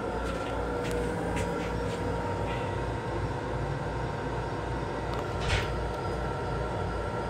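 Metro-North M7 electric railcar running, heard from inside its enclosed restroom: a steady rumble with a pulsing low end and a faint steady hum. A few light clicks near the start and a short rattle about five and a half seconds in.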